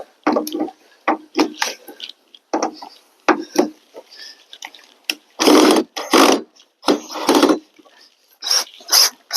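A pet animal calling over and over, a string of short irregular cries, loudest about five to six seconds in and again near the end.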